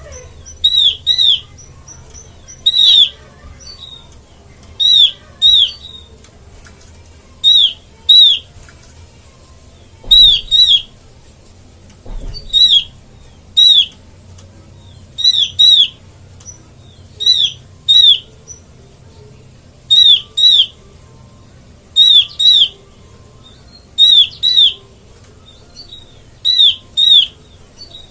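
Opior calling: short, sharp, down-slurred notes, mostly in pairs, repeated about every two seconds. This is the call used as a lure sound ('pikat') to draw in the same species.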